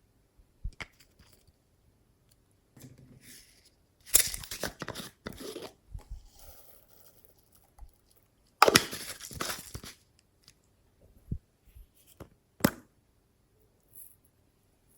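Slime being squeezed and stretched by hand, giving crackly, popping bursts, two loud ones a second or so long, with scattered short pops between.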